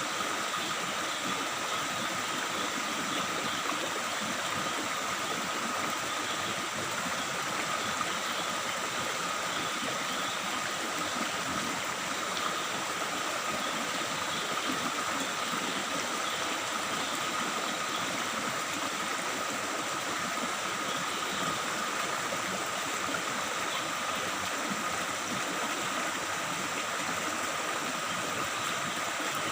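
Forest stream babbling steadily, with a faint steady high-pitched tone running through the water noise.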